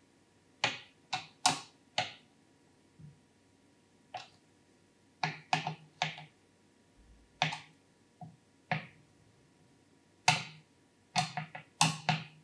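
Irregular sharp clicks and taps of PC hardware being handled and fitted while an AIO liquid cooler is installed in a computer case, some coming in quick clusters of two or three.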